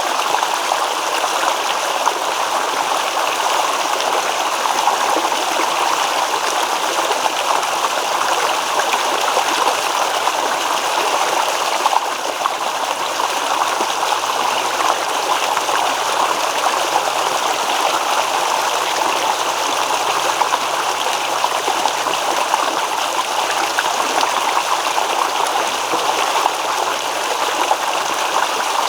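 Shallow stream babbling steadily over rocks, an even rush of flowing water with no breaks.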